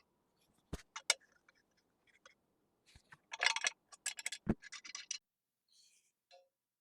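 Light clicks, taps and scraping from tools and parts being handled on a workbench: two sharp clicks about a second in, then a quick run of scratchy ticks with a harder click among them in the middle.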